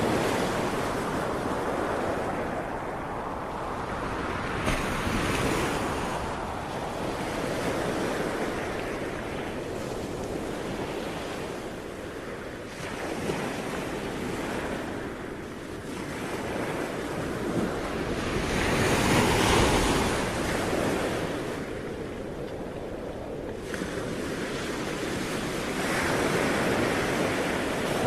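Sea waves surging and washing in, rising and falling in slow swells, with the loudest surge about two-thirds of the way through.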